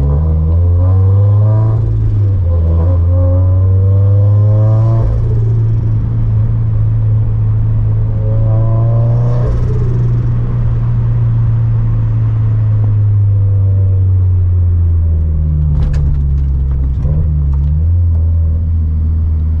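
Turbocharged 2013 Scion FR-S flat-four boxer engine through a catless front pipe and quad-tip catback exhaust, driving with a steady low exhaust drone. The revs climb in short pulls twice in the first five seconds and again around nine seconds in, then settle into cruise. A few sharp clicks come around sixteen seconds in.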